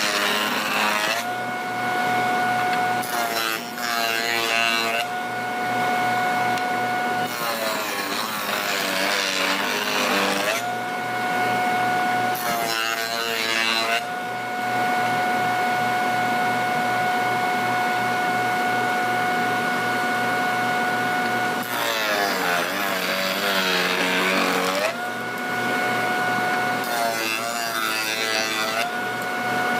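An electric woodworking power tool's motor running with a steady high whine. Its pitch drops and wavers in about six bouts, as it would under load while cutting, then returns to the steady whine.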